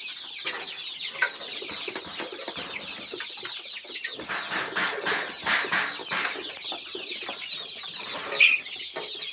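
A flock of about 200 four-week-old layer chicks peeping and clucking together in a steady chatter of many short falling chirps, with one louder call near the end.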